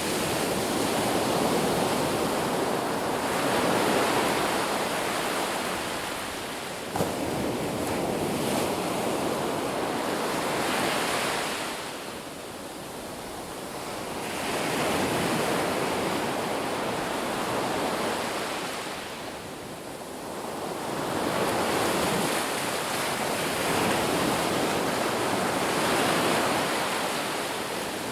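Ocean surf on a beach: waves breaking and washing in as a steady rush of water that swells and falls away every several seconds.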